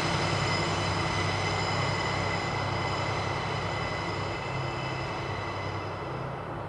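Diesel train running on the line and slowly moving away, its engine hum steady underneath and a high-pitched whine above it that fades out near the end.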